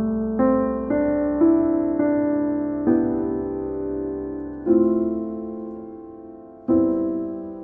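Slow, soft piano music: chords struck every one to two seconds, each left to ring and fade.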